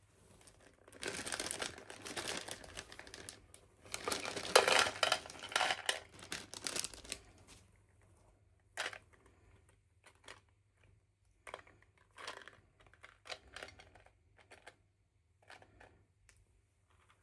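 Packaging being crinkled and torn open, in two longer spells in the first half, followed by scattered short rustles and taps.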